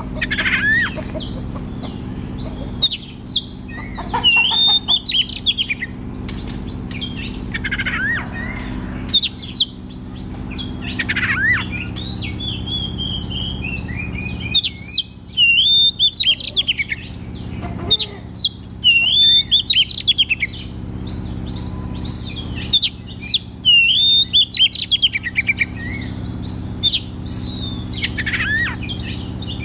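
Oriental magpie-robin (kacer) singing in full voice: a run of loud, varied whistles, slurred glides and quick chattering phrases. A steady low hum runs underneath.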